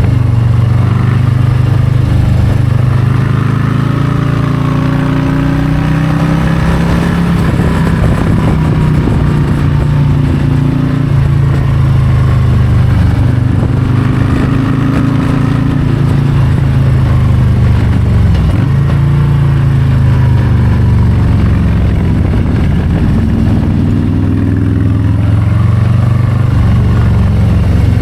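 Harley-Davidson Low Rider ST's Milwaukee-Eight 117 V-twin running under way, its pitch rising and falling as the throttle is rolled on and off, with a brief drop about two-thirds of the way through.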